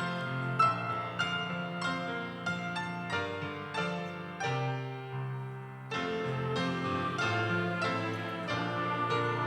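Slow instrumental piano music: chords and melody notes struck over sustained bass notes, easing off briefly about five seconds in before a new phrase begins.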